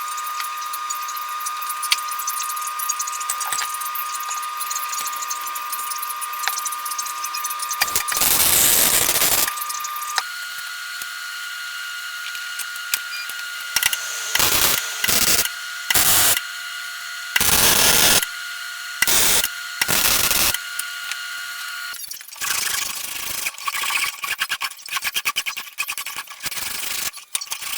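A power tool whining steadily, with repeated loud bursts of half a second to two seconds as it bites into the work. The whine shifts pitch about ten seconds in, and near the end the sound turns rough and uneven.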